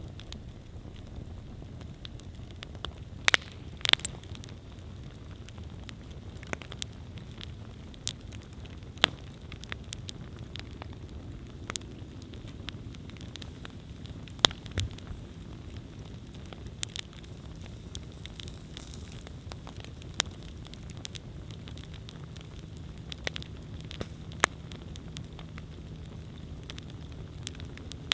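Wood campfire burning: a steady low rumble of flames with irregular sharp crackles and pops, a few louder snaps among them.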